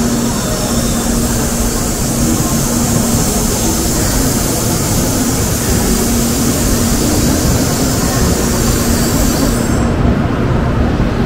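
Shinkansen bullet train running: a loud, steady rush of noise with a faint low hum. The high hiss stops abruptly near the end.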